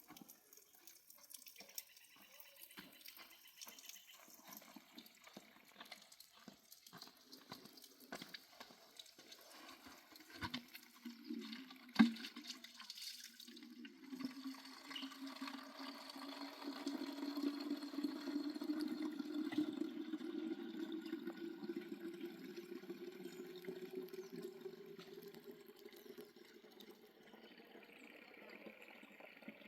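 A series of small clicks and knocks, with one sharp knock about twelve seconds in. Then water runs into a container for the rest of the clip, its pitch slowly rising as the container fills.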